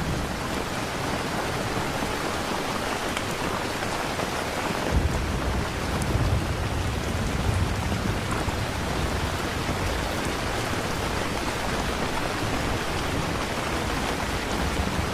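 Steady rain with thunder rumbling low, growing stronger about five seconds in.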